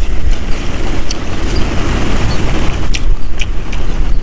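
Strong wind buffeting the microphone: a loud, gusting low rumble, with a few sharp clicks on top.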